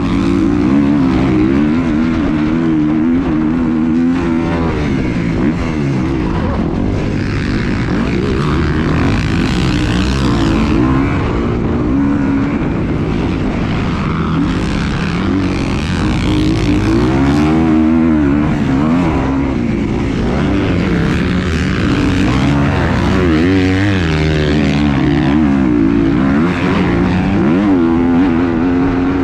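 An engine running continuously, its pitch wavering up and down, over steady rushing wind noise.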